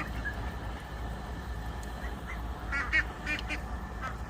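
Birds calling: a few short, faint honk-like calls about three seconds in, over a low steady rumble.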